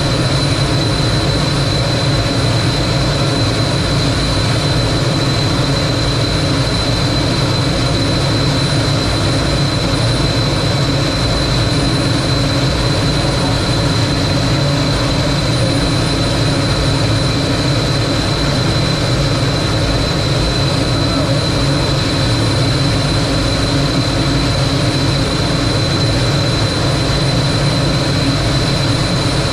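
Lockheed T-33 jet's Allison J33 turbojet running steadily in flight, heard from inside the cockpit: a loud, even rush of engine and air noise with a steady high whine.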